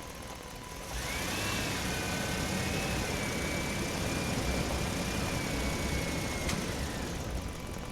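An engine running steadily with a low rumble. About a second in, a louder hiss and a high whine join it, and they fade away near the end.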